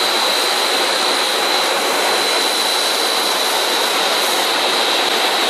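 Snack-food extrusion production line machinery running, a steady loud mechanical noise with a constant high whine.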